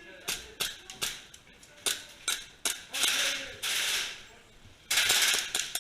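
Airsoft guns firing. Several single snapping shots come in the first three seconds, then a sustained burst of rapid fire about three seconds in and another near the end.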